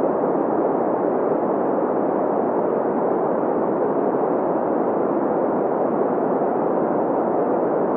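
Steady synthesized green noise: an even hiss with its energy centred in the middle range around 500 Hz, little deep bass and no highs, unchanging throughout.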